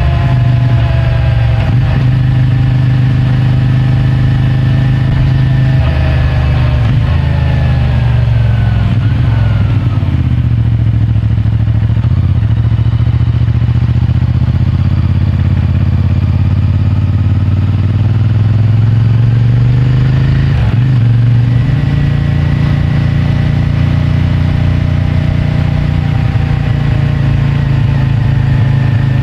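CFMOTO 450MT's parallel-twin engine through its stock exhaust, running under way. The engine note drops about a third of the way in as the bike slows, holds lower, then climbs again about two-thirds in as it pulls away.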